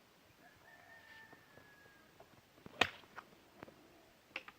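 A golf club striking a ball about three seconds in: a single sharp click, the loudest sound, followed by a few lighter clicks. Before it, a rooster crows faintly in one drawn-out call.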